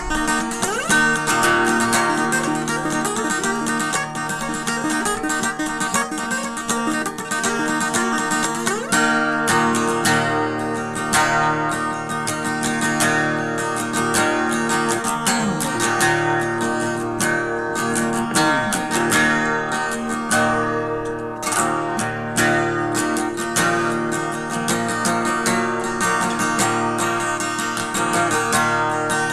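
Acoustic guitar strummed in an instrumental passage of a song, with no singing.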